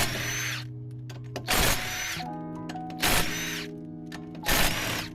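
Impact wrench loosening wheel lug nuts in four short bursts about a second and a half apart, each with a high whine. Background music plays underneath.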